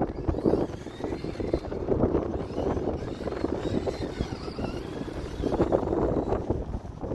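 Traxxas Slash radio-controlled short-course truck running, its motor giving a faint whine that rises and falls with the throttle, under heavy gusty wind noise on the microphone.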